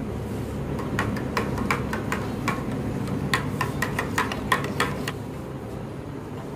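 Steel spoon clinking against the inside of a stainless steel tumbler while stirring powder into water: a run of quick metallic clinks, about three a second, from about a second in until about five seconds in.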